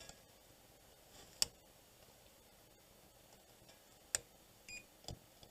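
Two sharp clicks about three seconds apart, then a brief chirp from a multimeter's continuity beeper and a light knock near the end, as probe tips are touched to circuit-board tracks.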